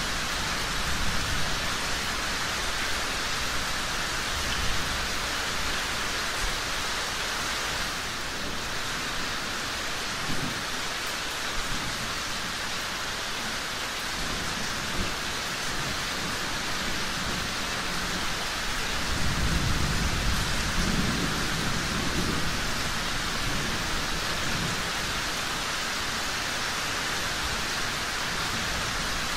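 Steady, heavy rain hissing evenly, with a low rumble of distant thunder swelling about two-thirds of the way through.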